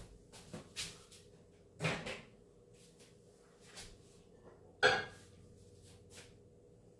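Scattered knocks and clunks of things being handled in a kitchen, the two loudest about two and five seconds in.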